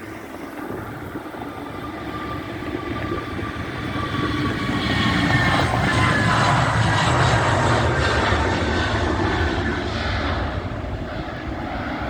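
Airbus A321neo jet, with CFM LEAP-1A turbofans, passing by. Its engine noise swells to a peak about halfway through and then eases off, while the engine whine falls in pitch as it goes past.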